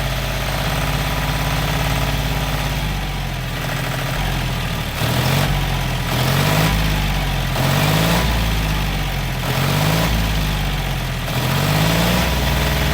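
Small tractor engine idling steadily, then revved up briefly again and again, about once every second and a half, in the second half.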